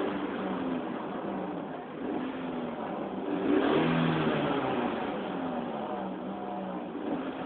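Ford Escort's engine revved up and down several times through a drilled-out exhaust, echoing in a tunnel; the loudest rev climbs about three and a half seconds in.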